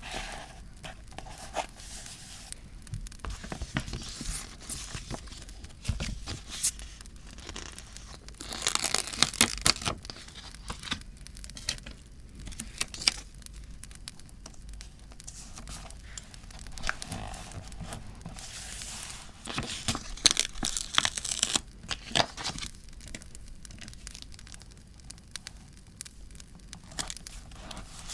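Paper being handled and torn for a scrapbook journal: scattered crisp rustles and clicks, with two longer, louder tearing stretches about nine and twenty seconds in.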